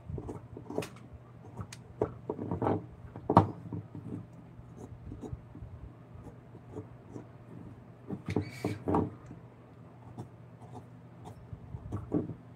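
Irregular taps, knocks and scrapes of hand work on wood, over a steady low hum. The loudest knock comes about three seconds in, and a cluster of scrapes and knocks follows near the middle.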